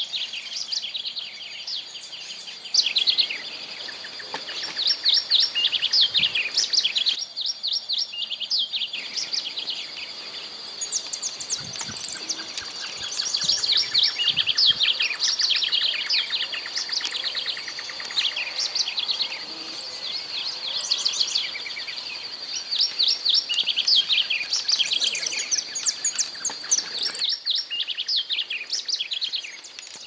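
Masked yellowthroat singing: its song comes as repeated phrases of quick, sharp high notes, each phrase a second or two long, with short pauses between them.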